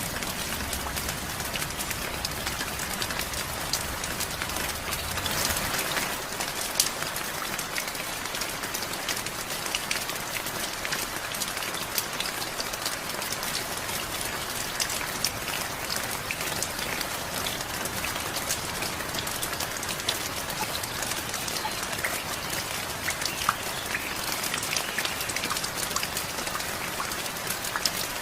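Steady rain falling, with many individual drops striking sharply throughout. A low rumble underneath stops about five seconds in.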